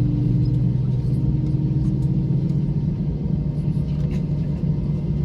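Airbus A321 airliner, a steady low rumble with an even hum, the running noise of the aircraft's engines or systems during start-up. A higher hum fades out about halfway through.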